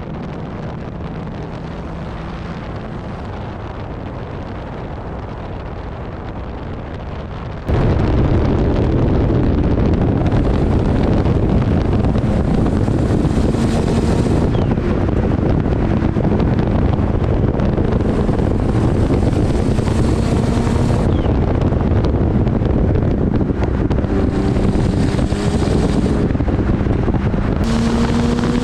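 Car on the move: steady engine and road noise that jumps suddenly louder about eight seconds in, with the engine's pitch rising in the last few seconds as it accelerates.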